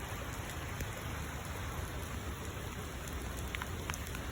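Steady, fairly heavy rain falling and pattering on surfaces.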